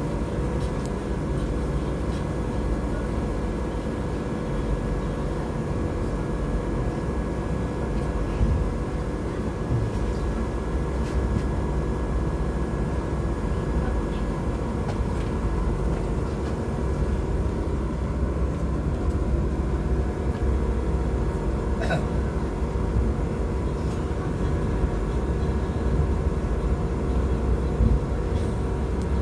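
Passenger train running along the track, heard from its rear end: a steady rumble of wheels on rail with a few steady machine tones on top and an occasional sharp click from the rails.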